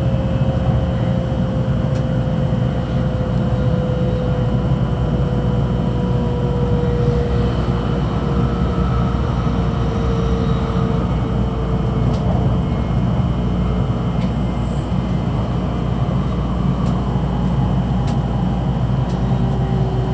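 Tokaido Shinkansen train heard from inside the passenger car: a steady running rumble with a thin whine that slowly falls in pitch as the train slows for a station stop.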